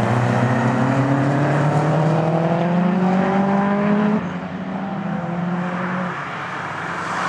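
Engines of a Peugeot 205 turbo and a Subaru Impreza WRX on a race track. One engine note climbs steadily in pitch under acceleration and drops off suddenly about four seconds in. A quieter rising note follows and fades about two seconds later.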